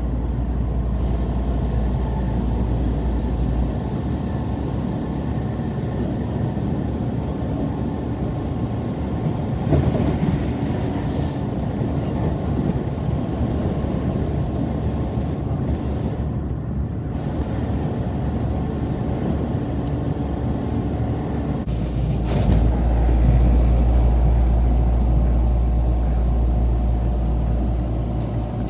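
A moving train's running noise: a steady rumble with faint steady tones. A low hum drops away about four seconds in and returns near the end.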